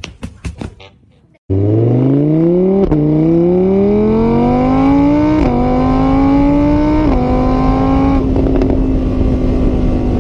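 A few sharp knocks, then a motor vehicle engine starts in loud and accelerates hard, its pitch climbing and dropping back with each of four upshifts before holding steady near the end.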